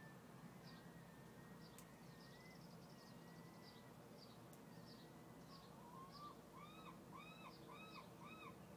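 Faint bird calls: short high chirps repeated about twice a second, and from about six seconds in a run of about six rising-and-falling calls, over a faint steady low hum.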